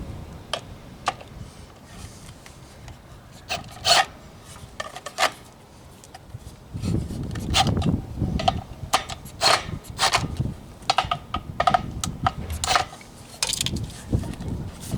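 Hand work on track parts: irregular knocks, clicks and scraping of wood and metal pieces being handled and fitted. The clatter grows busier in the second half.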